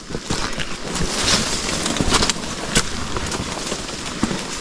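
Footsteps pushing through forest undergrowth, with leaf litter and twigs crackling and snapping underfoot in quick irregular clicks.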